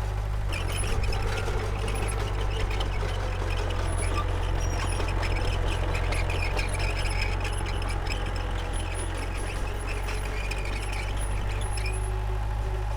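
Komatsu D31P crawler bulldozer at work: its diesel engine runs steadily, with a higher metallic clatter over it.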